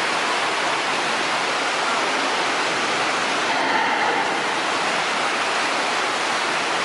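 Steady, loud rush of falling or flowing water.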